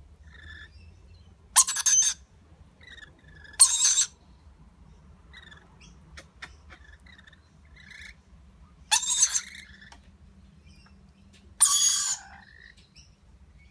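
Lorikeets giving four loud, harsh screeches, each about half a second long, with soft short chirps and a few faint clicks between them.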